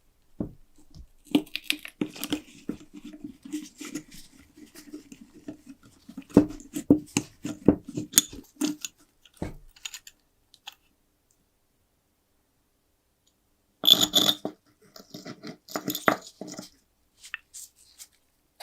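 Small metal lighter parts being handled: irregular clicks, clinks and scrapes over a faint steady low hum. It goes silent for a few seconds, then a short burst of scraping and clinking follows.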